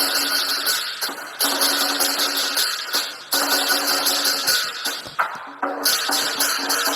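Lion dance percussion music: drum beats under fast, repeated clashing metal strikes like cymbals, in a steady rhythm that pauses briefly a few times.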